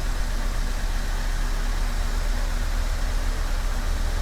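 1999 Honda Civic's four-cylinder engine idling steadily just after starting, now that the resoldered main relay no longer keeps it from running.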